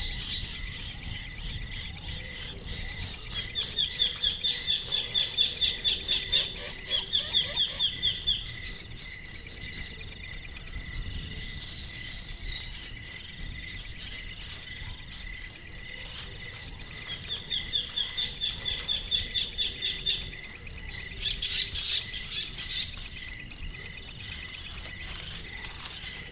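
Steady, high-pitched insect chirping, pulsing about three times a second, with bird trills twice: a few seconds in and again after about seventeen seconds.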